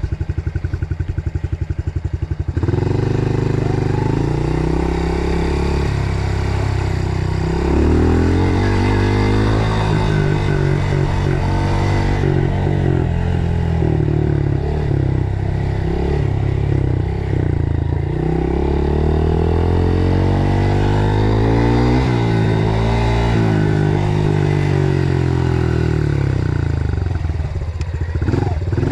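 Dirt bike engine idling with an even pulse for about two and a half seconds, then pulling away and running under load, its revs rising and falling repeatedly as it is ridden.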